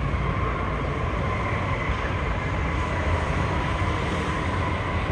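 Steady background din of a busy exhibition hall, an even rushing noise with a faint constant high hum running through it.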